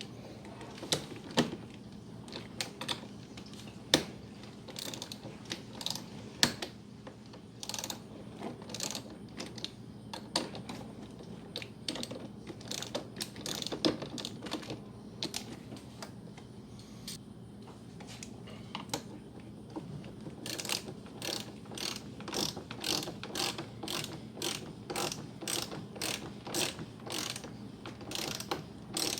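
Hand ratchet wrench clicking while tightening the clamp nuts of new battery post terminals, with scattered clicks and handling at first, then a steady run of about two clicks a second near the end.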